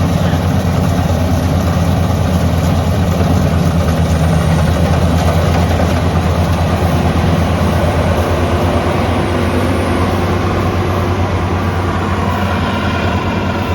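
Rice combine harvester running steadily as it harvests, with a loud, even engine hum under a broad mechanical noise.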